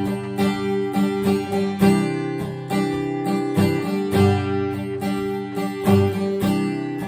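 Acoustic guitar strumming chords in a steady rhythm: an instrumental passage between sung lines.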